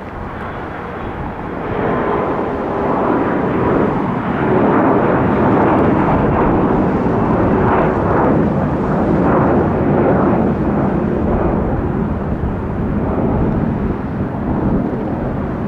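Jet airliner's engines at takeoff thrust as it climbs out: a loud, steady jet rumble that swells about two seconds in, peaks in the middle and eases a little toward the end.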